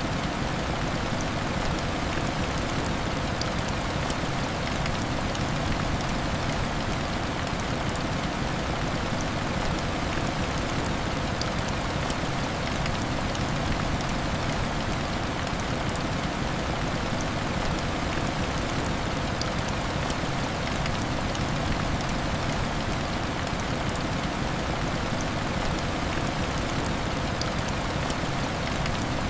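Heavy rain beating steadily on window glass: an even hiss with many small sharp drop ticks, unchanging throughout.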